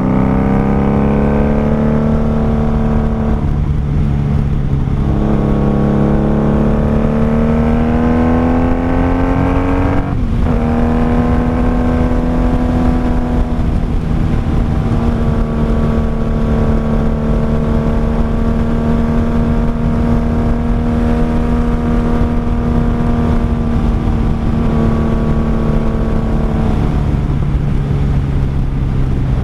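A Honda Magna VF750C's V4 engine and exhaust pulling the bike along, heard from the rider's seat. The engine note climbs as the bike accelerates, drops abruptly about ten seconds in as it shifts up, then holds a steady cruising pitch. It eases off again near the end.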